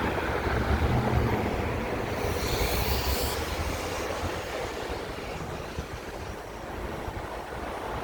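Wind rushing over the microphone with road and tyre noise while riding a Super 73 electric bike, a steady rumble that is a little louder in the first few seconds.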